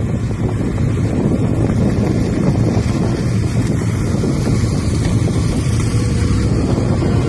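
Heavy wind buffeting on the microphone over a steady low engine drone.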